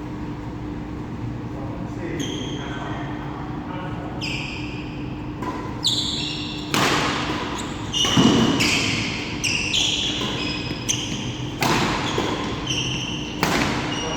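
Badminton rally in a hall: rackets striking the shuttlecock at irregular intervals, sharper hits about seven, eight, twelve and thirteen seconds in. Between the hits come short squeaks of court shoes on the floor, over a steady hum of the hall.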